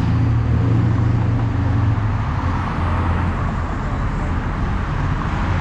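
Car engine running with a steady deep low-pitched note and a noisy hiss over it.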